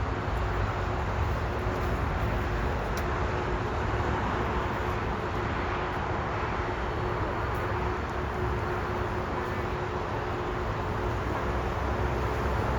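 Steady roar of a jet airliner's engines, even and unbroken, with a faint steady hum running underneath.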